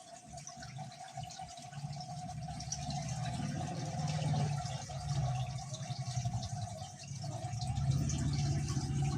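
Water trickling and dripping in a hydroponic growing system, over a steady hum that grows louder in the second half.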